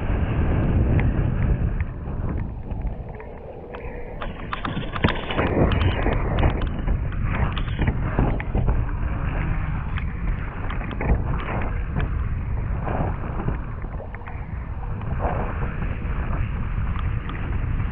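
Strong wind buffeting the microphone while windfoiling, with frequent short slaps and splashes of water against the board.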